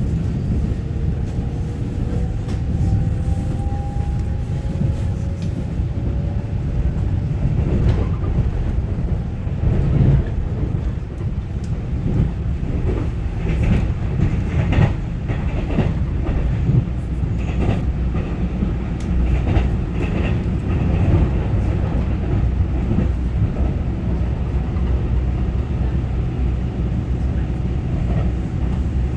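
Taiwan Railway EMU900-series electric multiple unit heard from inside the cabin while running at speed: a steady low rumble of wheels on rail. A faint whine rises in pitch over the first few seconds, and a run of sharp wheel clacks over rail joints comes in the middle.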